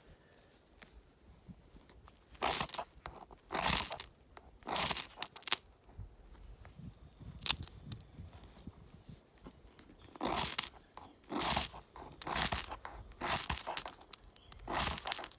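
Knife blade shaving fatwood in strokes of about one a second, each a short rasping scrape: one run of four strokes, a pause, then a second run of five.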